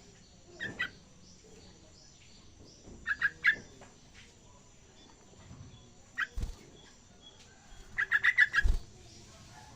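Young yellow-vented bulbul (trucukan) practising its song: short bursts of quick chirpy notes, four phrases, the last a rapid run of about eight notes near the end. Two dull low thuds come with the later phrases.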